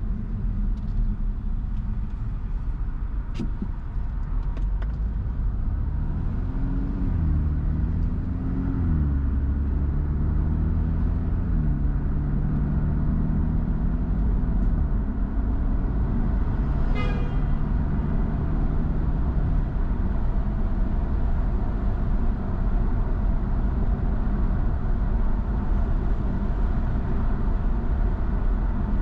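Car engine and road noise heard from inside the moving car: a steady low rumble, with the engine note rising and stepping down twice about seven seconds in as it accelerates through the gears, then holding steady.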